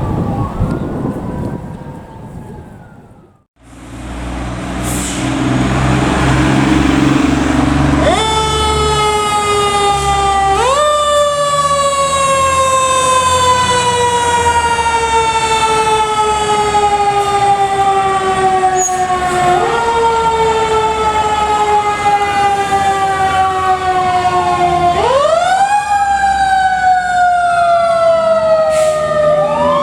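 A fire truck responding under siren. After a short break, its engine rumbles, then about eight seconds in the siren starts: each cycle jumps up quickly and glides slowly down, repeating every several seconds. A second siren with quicker rise-and-fall sweeps joins near the end.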